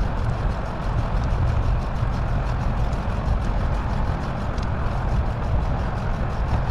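Steady wind rumble and road noise from a bicycle ride, sped up four times.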